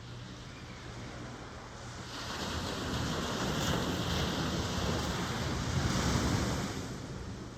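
Ocean wave breaking and washing in: a rushing swell that builds about two seconds in, peaks, and fades away near the end.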